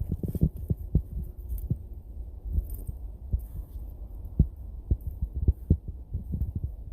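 Irregular low, dull thumps and bumps, some close together and some spread out, picked up by a head-mounted camera's microphone.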